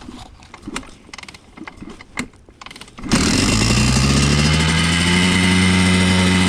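A few scattered clicks and knocks, then about three seconds in a Honda CR125's single-cylinder two-stroke engine comes in suddenly, rises briefly in pitch and settles into a steady run.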